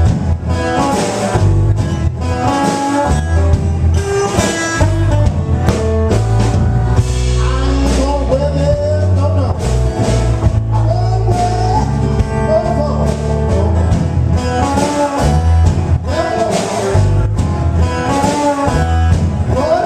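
Blues band playing live, electric guitar to the fore with bass and a steady drum beat, its notes bending up and down.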